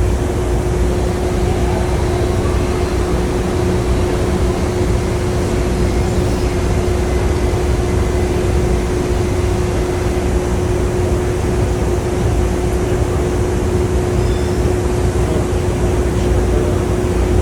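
Steady ride noise inside a moving PATH train car: a constant low rumble with a steady humming tone over it.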